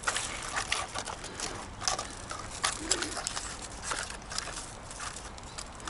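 Faint scattered clicks and crackles, with a low cooing bird call about three seconds in.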